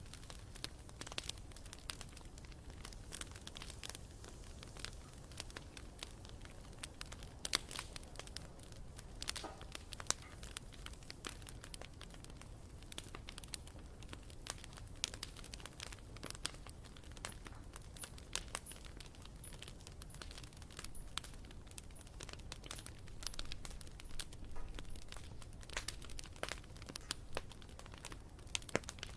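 Wood fire crackling: irregular sharp snaps and pops over a steady low rumble of the flames.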